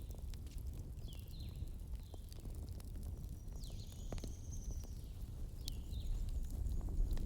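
Wood fire crackling: scattered sharp pops over a steady low rumble, with several short high chirping or whistling sounds among them.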